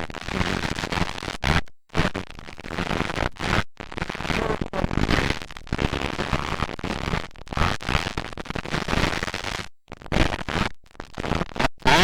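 Motocross dirt bike engines running hard, heard through a camcorder microphone as a harsh, distorted racket. The sound cuts out completely for a moment several times.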